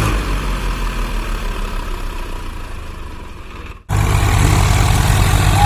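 Swaraj 855 FE tractor's diesel engine running with a low, steady throb. It gets somewhat quieter, breaks off for a moment a little under four seconds in, then comes straight back louder.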